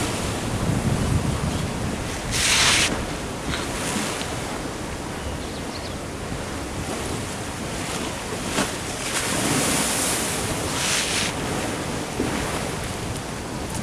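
Ocean waves washing and splashing against a sea wall, with wind buffeting the microphone; a wave splashes loudly about two and a half seconds in and the surf swells again a little before ten seconds.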